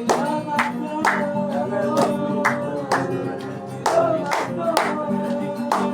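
Live gospel worship music: guitar and keyboard playing over a steady beat of about two strokes a second, with held, wavering sung notes.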